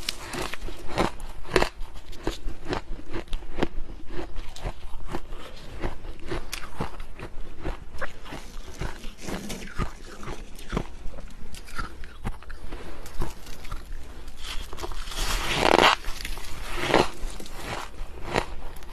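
Powdery deep-freezer frost being bitten and chewed: a steady run of short, crisp crunches, with a longer, louder crunch near the end.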